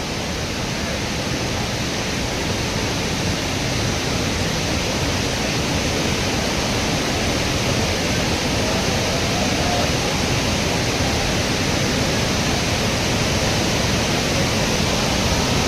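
Waterfall rushing: a steady, unbroken roar of falling water that grows slightly louder over the stretch.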